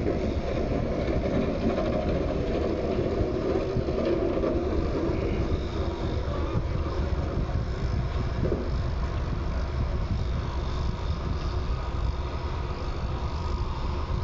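Steady low rumble of a running vehicle, a little fuller in the first few seconds.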